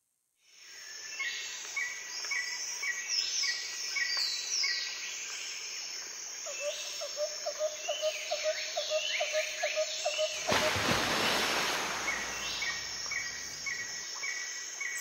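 Birds calling: a short chirp repeated steadily about one and a half times a second, with higher falling whistled calls over it, and a lower pulsing call from about six to ten seconds in. A brief rush of noise comes about eleven seconds in.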